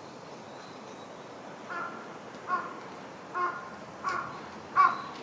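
A bird calling: five short caws, about one every 0.7 seconds, the last one loudest.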